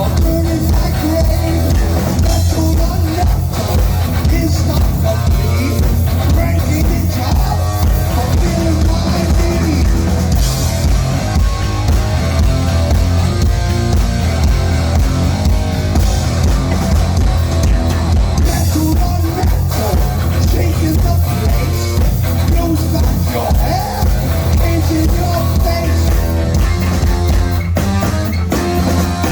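Live heavy metal band playing loud and steady: distorted electric guitar, bass and a pounding drum kit, with some singing.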